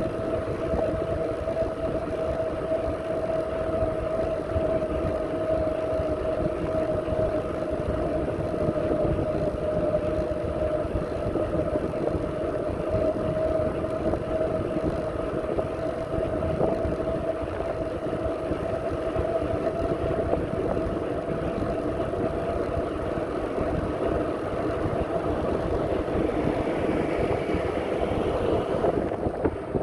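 Wind buffeting the microphone while riding a bicycle, with a steady whine running under it.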